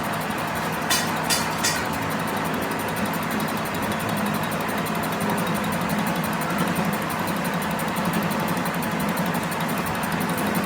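A machine running steadily with a low hum, with three short sharp clicks about a second in.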